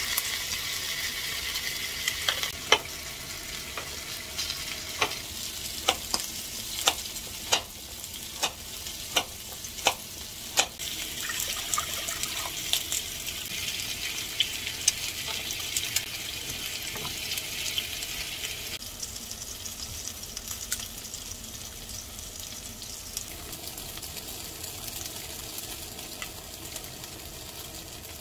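Chicken wings sizzling on a grill pan. This is followed by about a dozen sharp knocks over the next eight seconds, then a steady hiss that gives way to a quieter stretch in the last third.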